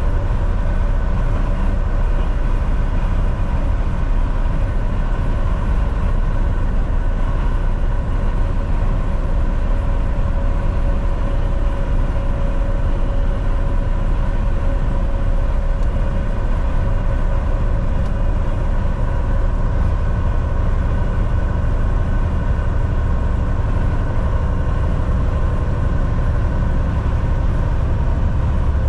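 Volvo VNL 760 semi truck cruising at highway speed: a steady engine drone and road noise, with a constant low rumble and an even hum.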